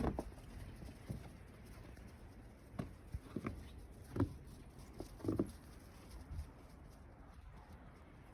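Puppies moving about, giving a few scattered light taps of their claws and small soft sounds, with quiet pauses in between.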